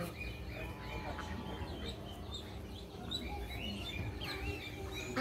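Small birds chirping, many short high calls one after another, over a low steady rumble.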